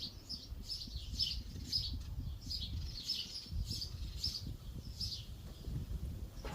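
A small bird chirping over and over in short, high, slightly falling chirps, about three a second, over a faint, uneven low rumble.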